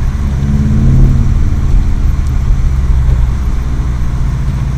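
Subaru WRX STI's turbocharged flat-four engine pulling the car through deep snow, heard from inside the cabin. Its low note rises a little in the first second, then holds steady.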